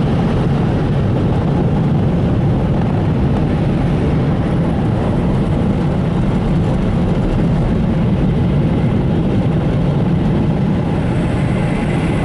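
A bank of Belanger car wash dryer blowers running with a steady, even rush, heard from inside the car.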